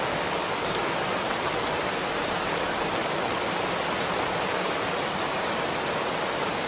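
Steady rain shower falling, an even dense hiss.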